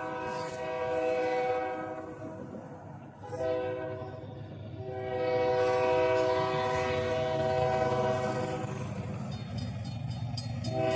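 An approaching diesel locomotive's multi-chime air horn sounds a long blast, then after a gap of about a second a longer one lasting about six seconds. Beneath it the engine's low rumble grows as the train nears.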